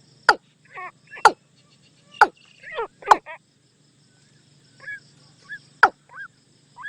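Watercock calling: a series of sharp notes that fall steeply in pitch, roughly one a second, alternating with softer bubbling falling calls, with a pause of about a second and a half midway.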